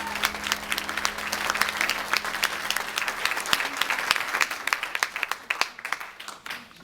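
Audience applauding, dense at first, then thinning out and dying away.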